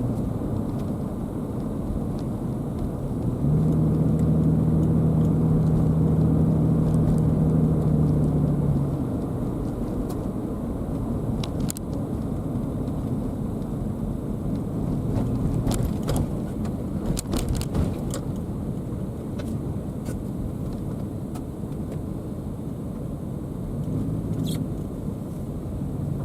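Car on the road: steady low tyre and engine rumble. From about three seconds in to about nine seconds it grows louder, with a steady low hum. A few faint clicks come later.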